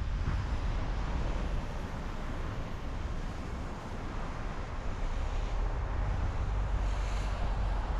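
A car driving at speed: steady road and tyre noise over a low rumble, with a brief brighter hiss about seven seconds in.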